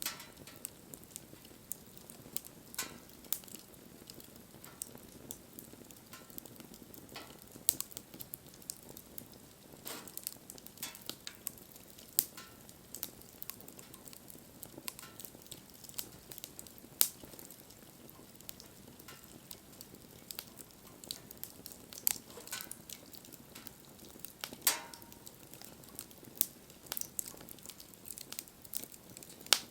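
Wood fire crackling, with irregular sharp pops over a soft steady hiss.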